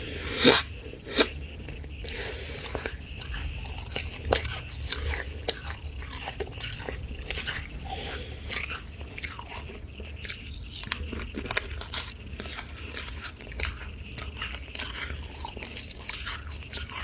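Freezer frost being bitten and chewed, with repeated crunches throughout and the two loudest about half a second and just over a second in, over a steady low hum.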